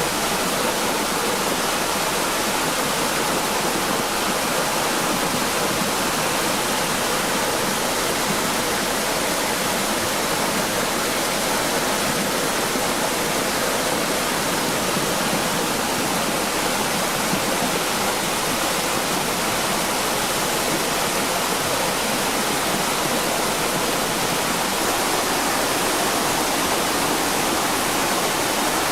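Flash-flood torrent of rushing water, a steady, loud, unbroken rush.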